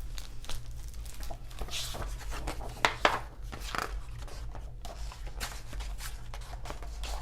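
Paper rustling with scattered soft clicks, a hardcover picture book being handled and its pages turned open.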